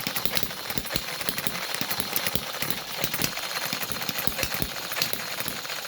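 Six-stroke (six-cycle) engine running, a string of uneven low thumps and knocks, several a second.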